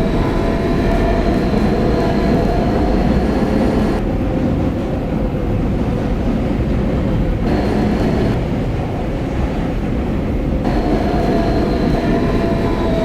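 Steady noise inside a Kawasaki R160B subway car, with a high electrical whine from the car's equipment. The whine fades out partway through and returns near the end.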